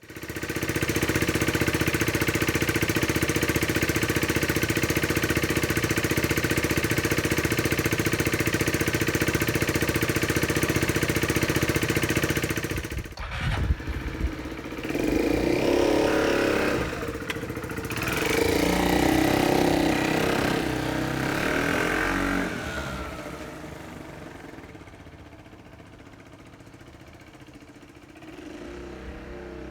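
Royal Alloy GP200 scooter's single-cylinder four-stroke engine running steadily for about the first thirteen seconds. It is then revved several times, the pitch rising and falling, before dropping back to a quieter idle.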